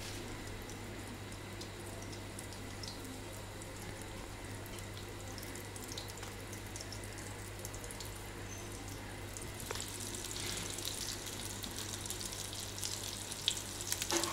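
Potato and chicken cutlets sizzling in shallow oil in a frying pan, a steady hiss, with the crackle growing livelier about two-thirds of the way through.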